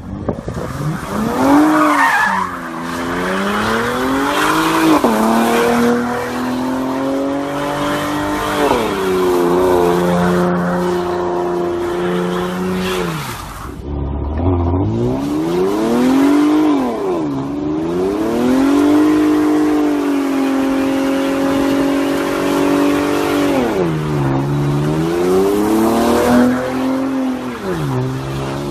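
Car engine revving hard, its pitch dropping and climbing again every few seconds, with tyre squeal.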